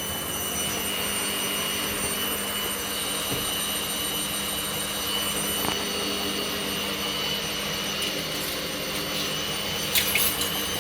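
Hoover Wizard washer dryer on its spin cycle: the drum spins at speed with a steady whirring and a constant high motor whine. A few sharp clicks come near the end.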